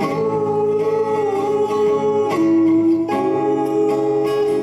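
Live acoustic band music: acoustic guitars strumming the closing bars of a pop ballad, with a singer holding long notes over them.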